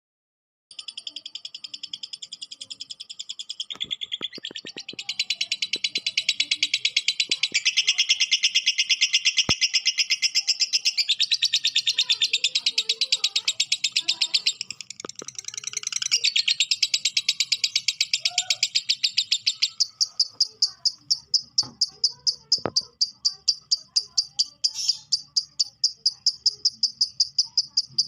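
Lovebird giving its long "ngekek" call: a rapid, unbroken high-pitched chatter that starts about a second in. About two-thirds of the way through it settles into an even pulsing of about five notes a second.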